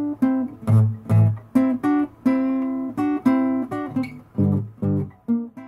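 Background music: a guitar picking a melody of single notes, each note sharply plucked and fading, cutting off near the end.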